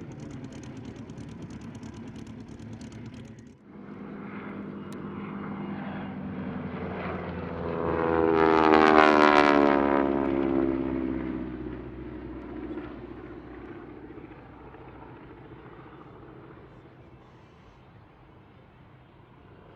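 Aircraft flying past at an airshow: after a brief break a few seconds in, its engine sound swells to a loud peak about nine seconds in, the pitch falling as it passes, then fades slowly as it draws away.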